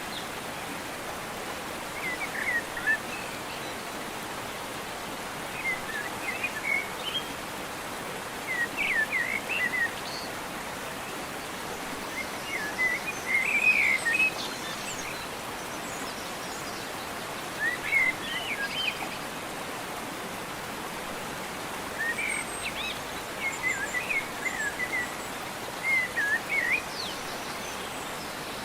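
Birds chirping outdoors in short, quick phrases of rising and falling notes every few seconds, over a steady even hiss.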